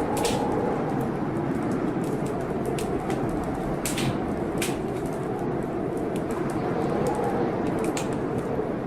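Blizzard wind blowing steadily, with a whistle that swells and falls, over a wood fire crackling with irregular sharp pops.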